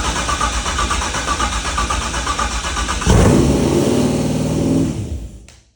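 LT1 V8 cranking over on the starter for its first start on a basic Holley Terminator X tune. About three seconds in it catches and revs up high and uncontrolled, because nothing is set up yet for idle. It then dies away and stops abruptly near the end.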